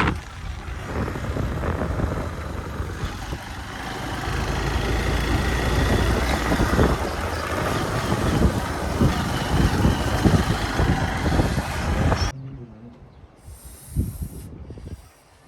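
Hero Xpulse 200 single-cylinder motorcycle running on rough off-road track, with wind buffeting the microphone and scattered knocks. About twelve seconds in the sound cuts off abruptly to a much quieter scene.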